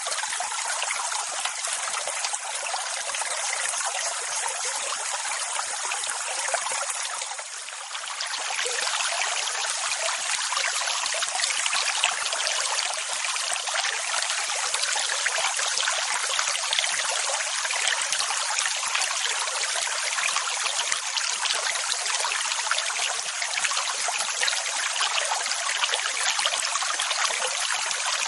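Steady rush of water, with a brief lull about seven to eight seconds in before it builds back.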